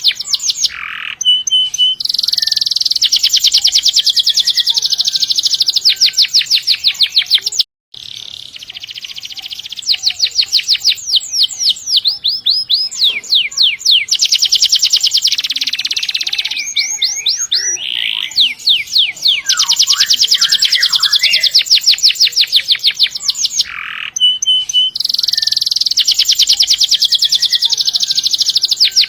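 Domestic canary singing long rolling trills: runs of fast, evenly repeated high notes lasting several seconds each, with short breaks between runs and a momentary drop-out about eight seconds in.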